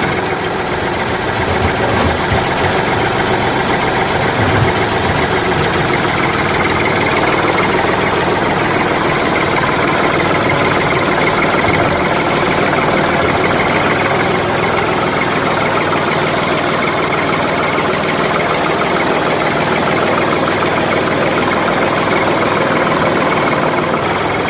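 Tractor engine running steadily, an even loud chug with no change in speed.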